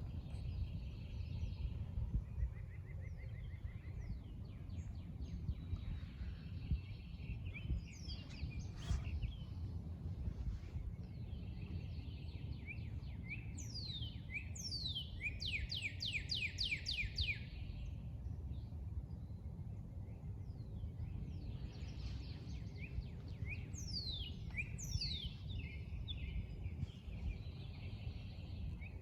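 Songbirds singing: trills and runs of quick falling notes, with a fast series of repeated notes in the middle. A steady low rumble lies underneath.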